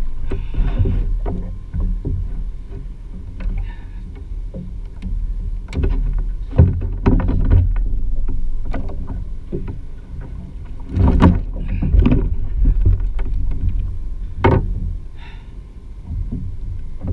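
Steady low rumble of wind and water on a GoPro's microphone aboard a plastic fishing kayak, broken by a handful of sharp knocks and clatters, the loudest about six and a half, eleven, twelve and fourteen and a half seconds in.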